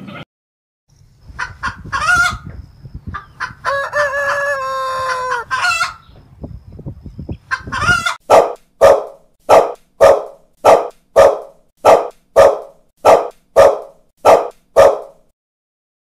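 Animal calls: a few short cries and one long, drawn-out pitched call in the first half, then a dog barking steadily, about a dozen barks at just under two a second.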